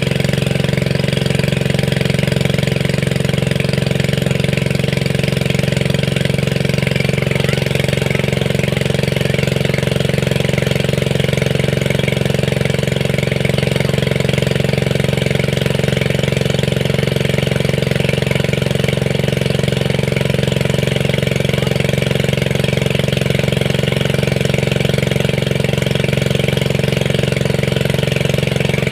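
A small engine running steadily at a constant speed, its hum unbroken throughout.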